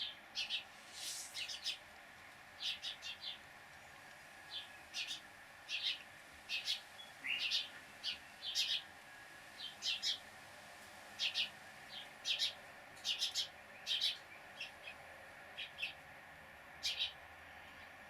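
Small bird chirping: short, sharp, high chips, some single and some in quick clusters of two to four, repeated irregularly throughout.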